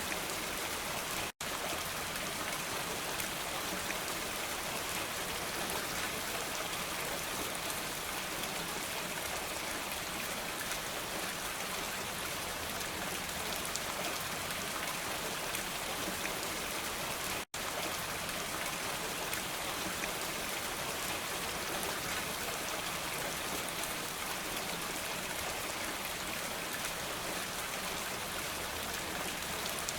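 Steady rain falling, an even hiss with no thunder, cut by two momentary silent dropouts, one about a second and a half in and one a little past the middle.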